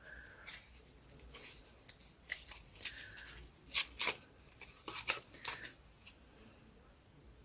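Faint handling of paper and card on a craft table: light rustles and a scattering of small clicks and ticks, fading out near the end.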